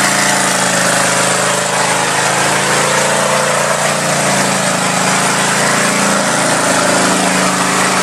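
4x4 truck engine running loud and steady, its pitch held nearly even with only slight wavering.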